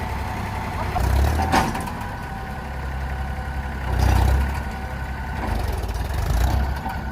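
Diesel tractor engine running with a low rumble that swells three times, about one, four and six seconds in, as it is worked harder. A single sharp knock about a second and a half in.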